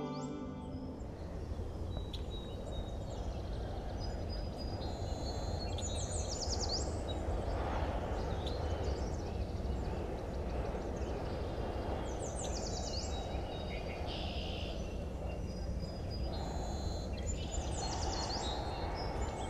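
Outdoor ambience: a steady low rumble with birds chirping in short, high bursts a few times.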